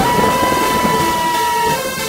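Electronic sound effect in a sonidero mix: a steady, high, siren-like tone held for nearly two seconds over a rushing noise, cutting off near the end.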